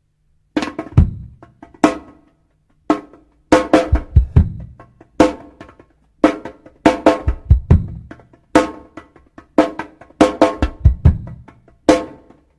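Song intro played on a drum kit: snare and bass drum hits in irregular clusters and fills, with pitched tones ringing briefly after the accents, starting about half a second in.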